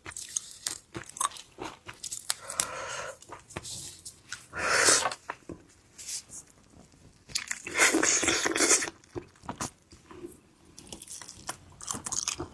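Close-miked eating of shrimp or crab: crunching and chewing, with many small clicks and three longer bursts of crunching about two, four and a half, and eight seconds in.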